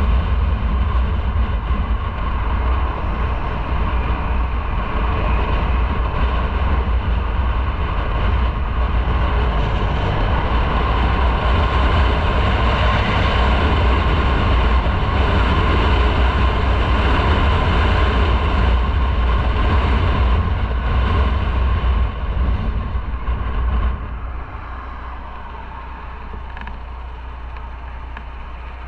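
Motorcycle on the move, its engine running under a steady rush of wind noise. Near the end the noise drops sharply to a quieter, steady rumble as the bike slows.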